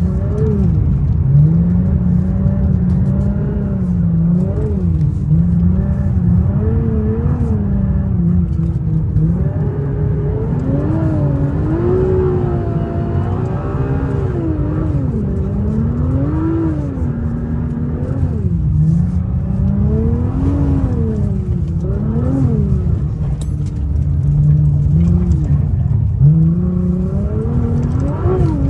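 A car engine revving up and dropping back over and over under a heavy steady rumble, its pitch swinging up and down every second or two as it is driven hard.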